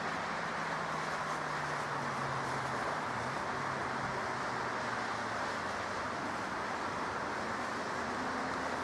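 Jet airliner engines at the airport, a steady noise with a faint low tone that slowly falls in pitch over the first few seconds.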